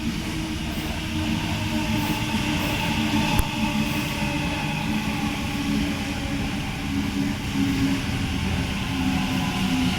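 Sydney Trains electric passenger train at the platform: a steady hum with several held tones from its motors and onboard equipment, and one short click about three and a half seconds in.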